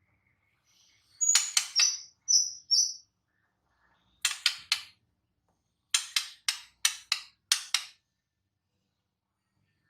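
White-rumped shama (murai batu) singing: groups of sharp, harsh clicking notes, a few short high whistled notes among the first group, then two more bursts of clicks, the last the longest.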